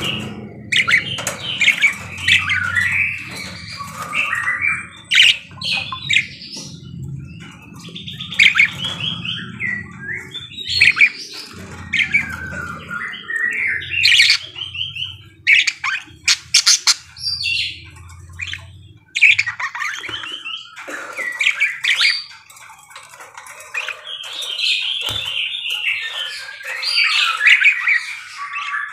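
Pet parakeets (budgerigars) chattering: a continuous run of warbling chirps and squawks with sharp clicks mixed in. A low hum sits underneath and stops about two-thirds of the way through.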